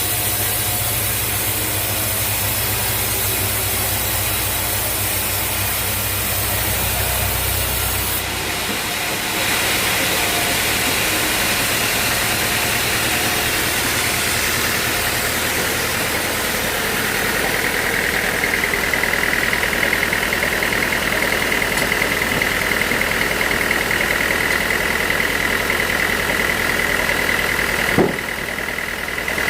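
Portable bandsaw sawmill running, its engine droning and the band blade hissing through a teak log. The sound shifts about eight seconds in. A steady high whine builds from about halfway, and there is a single sharp knock near the end.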